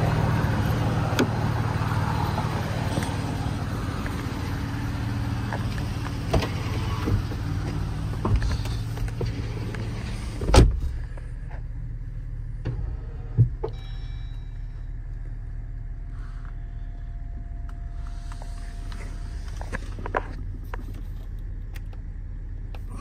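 Jeep Wrangler's 3.6 L V6 with a Prodigy stage two turbo kit idling steadily, heard at the front grille. About ten seconds in there is a loud thump as a door shuts, and the idle then goes on quieter and muffled, heard from inside the cabin, with a faint steady tone for several seconds and a few light clicks.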